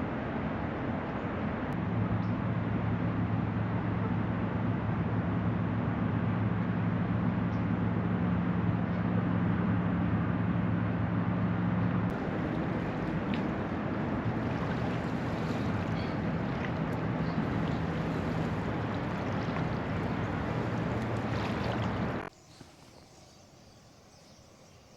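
A motorboat's engine running steadily on the river as a low hum over a wash of wind and water noise; it stops suddenly near the end.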